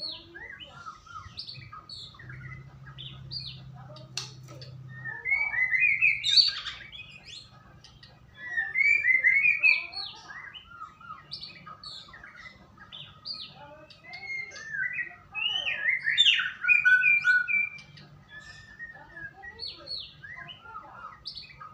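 White-rumped shama singing: a continuous run of varied short whistles and chirps, broken by three louder, rich warbled phrases about six, nine and sixteen seconds in.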